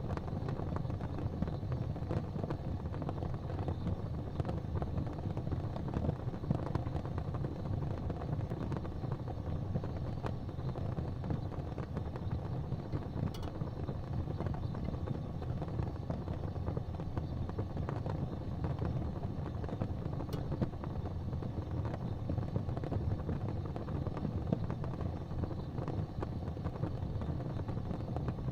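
Fire burning in a fireplace: a steady low rumble with a few faint crackles now and then.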